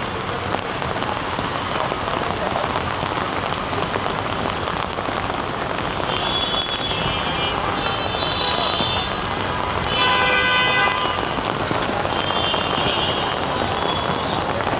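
Heavy rain falling steadily, a dense, even hiss of rain on the street surfaces. A few short higher-pitched tones cut through it, the loudest about ten seconds in.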